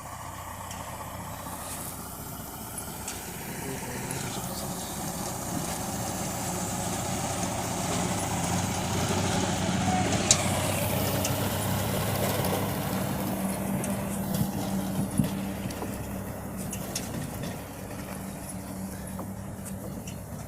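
Tractor engine running steadily. It grows louder to a peak about halfway through, then eases off, with a sharp knock about ten seconds in and another about five seconds later.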